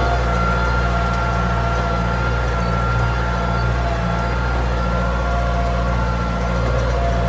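Kubota M9000 tractor's diesel engine running steadily, with a steady high-pitched whine above the engine note.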